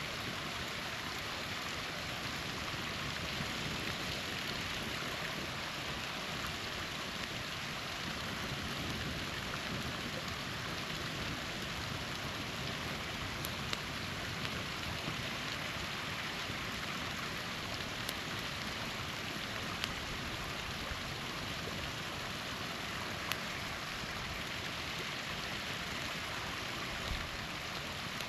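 Steady splashing rush of a small waterfall, with a few sharp pops from a crackling campfire scattered through the second half.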